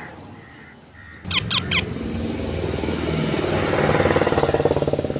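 The engine of a passing motor vehicle comes up about a second in, grows steadily louder and begins to fade near the end. Just as it starts, a ringneck parrot gives three quick, sharp screeches that fall in pitch.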